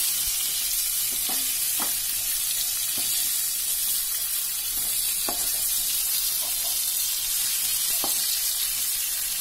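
Chicken pieces frying in oil in a kadai, sizzling steadily, while a spatula scrapes and knocks against the pan about six times as the pieces are pushed aside.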